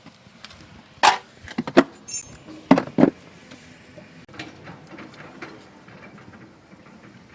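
Knocks and clatter of parts being handled while an air cleaner cover is taken off a small engine. A cluster of sharp knocks comes between one and three seconds in, with a brief metallic ring about two seconds in, then only faint handling noise.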